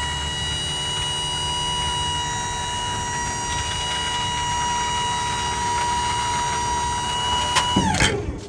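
Battery-powered 12-volt hydraulic pump on a bucket truck running the outriggers with a steady high whine, then winding down in pitch and stopping near the end.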